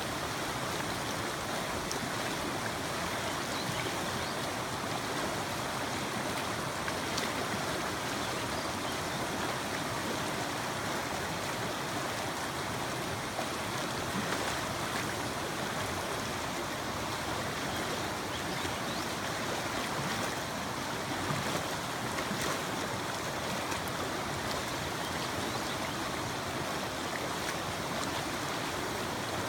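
Mountain creek rushing steadily over rocks, a constant even noise of running water.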